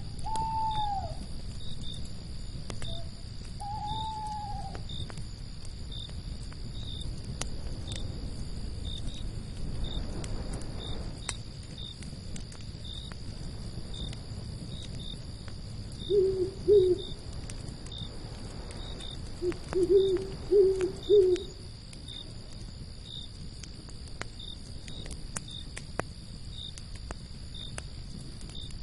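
Night ambience: an owl hooting in two bouts, two hoots then four or five, over crickets chirping in an even rhythm. A campfire crackles with scattered sharp pops over a low rumble of wind, and two short arching cries sound near the start.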